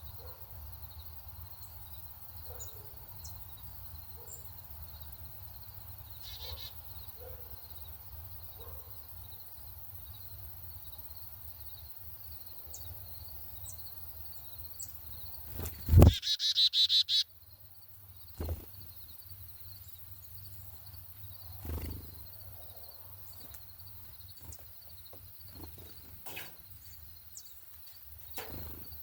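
Small songbirds chirping sporadically over a steady high-pitched background trill. About 16 seconds in there is a sharp thump, then a loud, rapid burst of chirping close by that lasts about a second. Two softer thumps follow.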